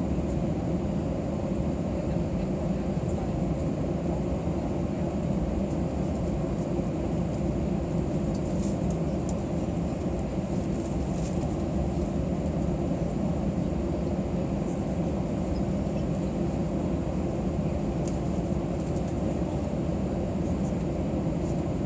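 Steady low rumble of cabin noise inside an Airbus A320 on the ground before takeoff, with a few faint clicks.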